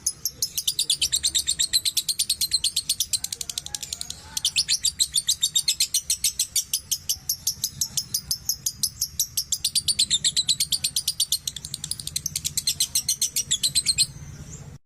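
Lovebird giving a long, rapid chattering trill ('ngekek'): a fast, evenly paced run of sharp high chirps. It breaks briefly about four seconds in and stops shortly before the end.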